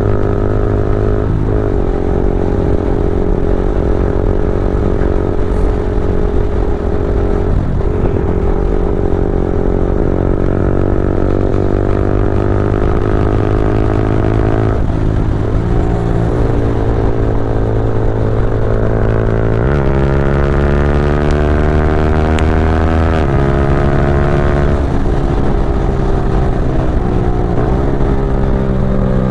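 Yamaha R15 V4's 155 cc single-cylinder engine running through a Leovince full-system exhaust under acceleration, its note climbing steadily and then dipping briefly at each gear change, about five times.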